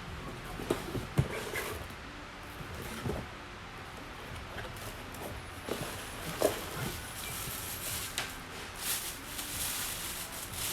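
Scattered clicks and knocks of cordless power tools being handled, picked up and set down, over a faint steady hiss.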